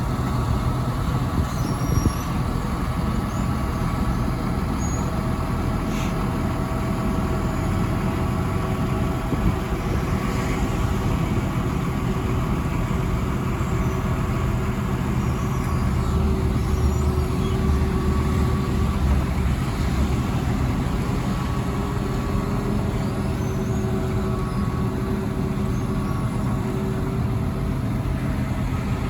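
Diesel engine of an ABG Titan 7820 crawler asphalt paver running steadily, growing slightly louder about halfway through.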